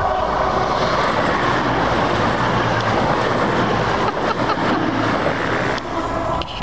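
CrossCountry Voyager diesel multiple unit passing close by at speed: a loud steady rush of wheels on rail over a low drone from its underfloor diesel engines, dropping away about six seconds in as the last car goes by.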